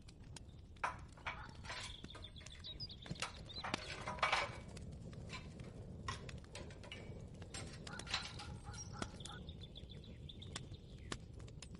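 Kitchen ambience: scattered light clicks, knocks and clinks, irregular and close together, over a steady low rumble, with a faint high tone held briefly twice.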